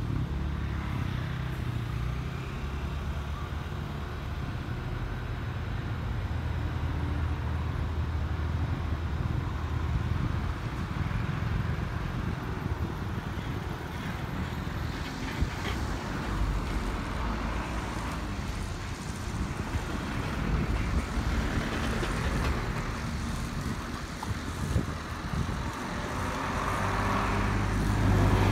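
Rail yard ambience: a steady low hum and rumble from electric trains, swelling near the end.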